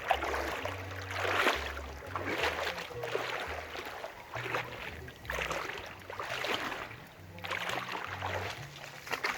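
Water washing against a small fishing boat in repeated surges about once a second. Under it runs background music with a low bass line that steps from note to note.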